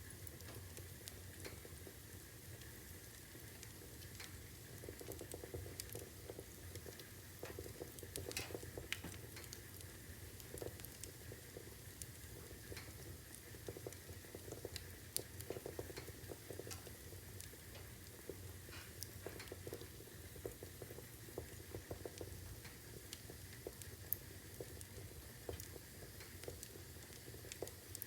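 Wood fire burning in a fireplace: a low steady rumble with irregular sharp crackles and pops from the burning logs.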